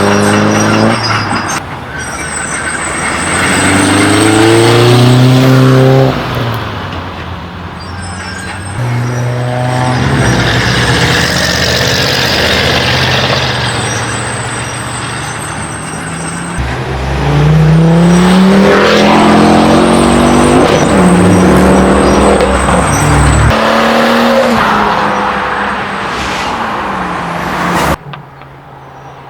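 Modified cars accelerating away one after another, each engine revving up in a rising run, with drops in pitch at gear changes, over loud exhaust noise. The sound falls away suddenly near the end.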